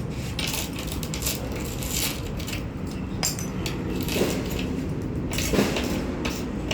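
Irregular short clinks and scrapes of glass and hand tools during glass cutting work for a truck window, over a steady low background rumble.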